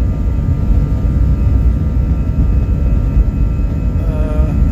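Airliner's jet engines at takeoff power, heard inside the passenger cabin: a heavy, steady rumble with a thin engine whine over it.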